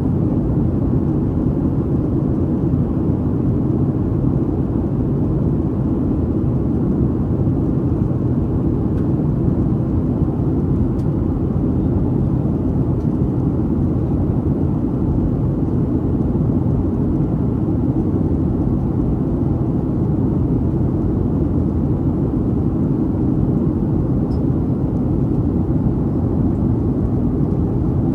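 Steady low cabin noise inside a Boeing 737-800 in flight: its CFM56-7B engines and the airflow over the fuselage, heard from a seat behind the wing.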